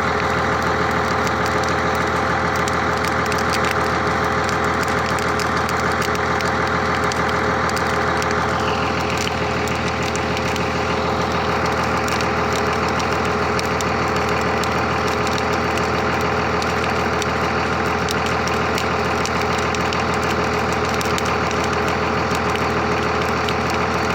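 Large bonfire burning, a dense constant crackle over a steady low hum. A brief falling tone sounds about nine seconds in.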